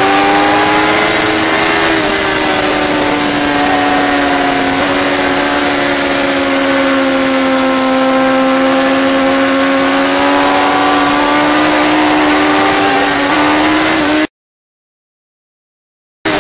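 Sport motorcycle engine running at high, steady revs through a long corner, with a rush of wind noise; its pitch sags a little midway and climbs back. The sound cuts out for about two seconds near the end, then returns.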